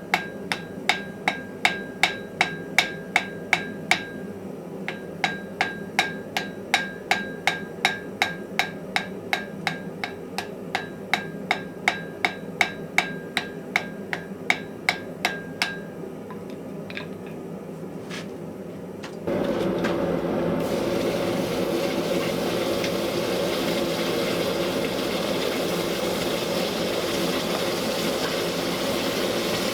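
Hand hammer blows on metal on an anvil, about two or three a second with a ringing note, as iron is forged. The blows stop about 16 seconds in. A few seconds later a steady loud machine noise starts up and keeps running.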